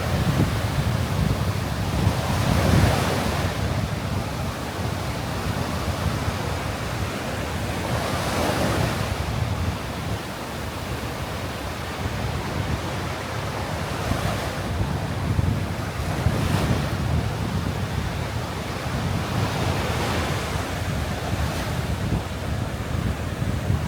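Sea surf breaking on a sandy beach, each wave rising to a crash every five or six seconds over a constant wash. Wind rumbles steadily on the microphone.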